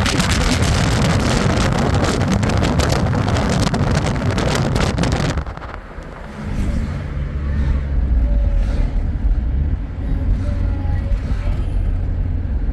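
A vehicle running, with wind rushing over the microphone for about the first five seconds; then the rush drops away, leaving a steady low engine rumble.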